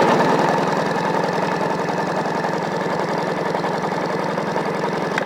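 Sea-Doo Rotax 657X two-stroke twin being cranked over by its starter for a compression test on the mag-side cylinder: a steady, rapid, even chugging that starts abruptly and cuts off after about five seconds. The gauge reads 149 PSI, a healthy cold compression.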